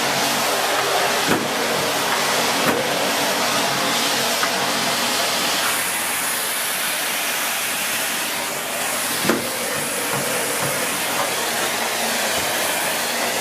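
Miele S8 canister vacuum cleaner running steadily over a hard floor, with a few knocks of the floor tool; about halfway through a high hiss in the airflow gets stronger.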